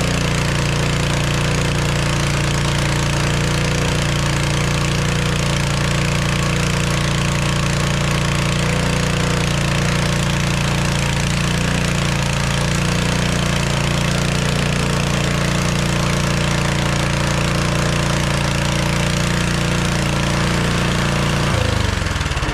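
MTD Pro snowblower's 179cc four-stroke engine running steadily at speed, now that its dirty carburetor has been cleaned. Near the end it is shut off and winds down.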